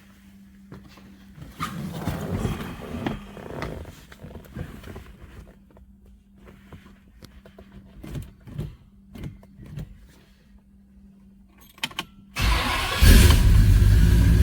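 A few clicks and handling noises, then a 1967 Pontiac GTO's 400 V8 cranks and fires near the end, settling into a loud, steady idle with a deep low end.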